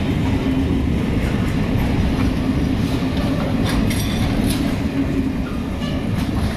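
Covered freight wagons rolling past on the rails: a steady heavy rumble of steel wheels, with a few sharp metallic clicks about four seconds in. The sound eases slightly near the end as the train draws away.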